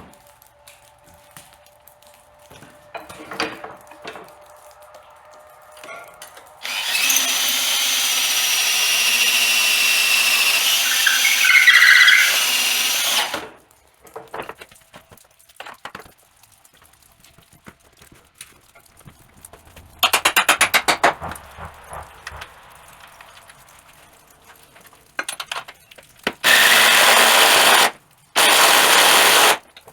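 Power drill running under load for about seven seconds, boring a bolt hole through the carriage's wooden boards and angle-iron frame. Later come a short, rapid rattling burst and two runs of about a second and a half each, as the tool drives in the bolts, with light knocks between the runs.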